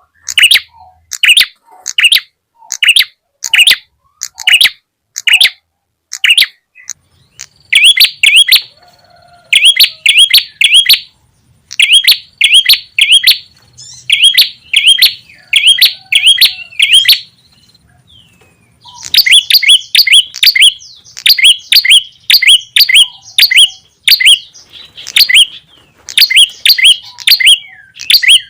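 Bird-lure recording of a small songbird, the prenjak tamu (red-headed prenjak): loud, sharp chirps repeated about twice a second, then quick runs of three or four notes. There is a brief break a little past the middle.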